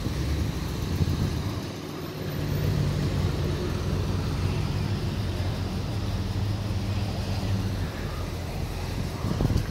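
A 1960s Chevrolet Impala convertible's engine running low and steady as the car rolls slowly past, the hum dropping away near the end.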